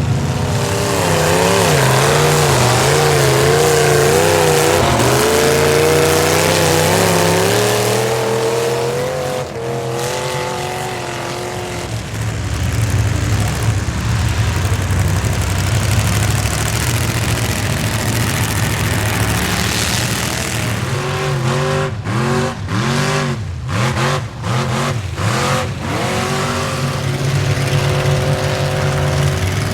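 Square-body Chevy mud truck's engine revving hard at high rpm through a mud pit, its pitch wavering up and down. About two-thirds in, the revs drop and climb again several times in quick succession as the throttle is blipped.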